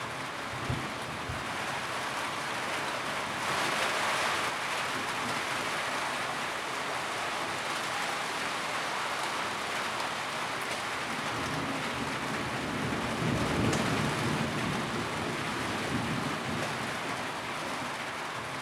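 Steady rain drumming on a tin roof, with a brief heavier gust about a quarter of the way through and a low rumble swelling in the second half.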